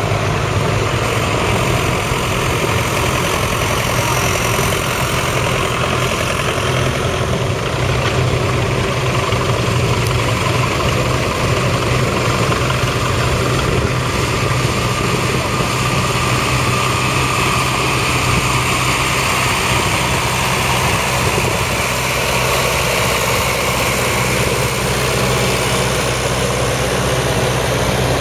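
Vintage farm tractor engines running steadily at low revs, a continuous low engine note.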